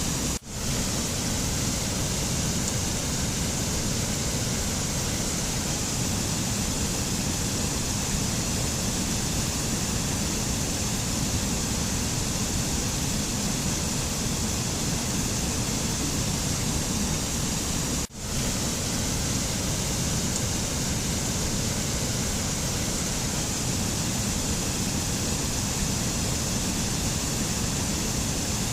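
Steady rushing noise of a mountain nature-sound recording, even and unbroken except for two brief dropouts, about half a second in and about 18 seconds in.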